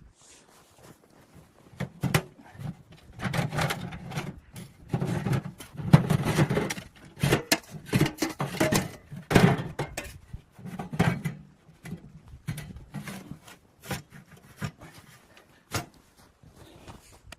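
Irregular knocks, clatters and rustles of objects being handled, busiest through the middle and thinning to a few sharp clicks near the end.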